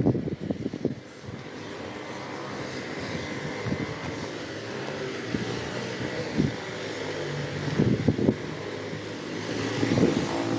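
A motor vehicle's engine running steadily, with faint voices in the background.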